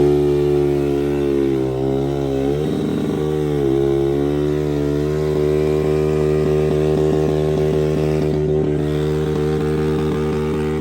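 Motorcycle engine running at a steady pitch; the revs dip briefly about three seconds in, then settle back and hold.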